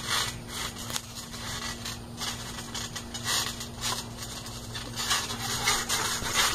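Wrestlers scuffling and moving on a trampoline: an irregular string of soft thumps, scrapes and rustles on the mat, over a steady low hum.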